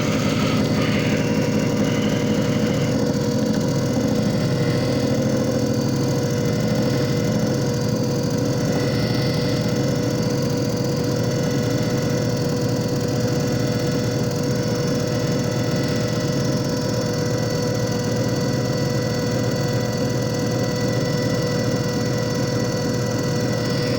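JFJ Easy Pro disc repair machine running: a steady motor hum with a constant whine.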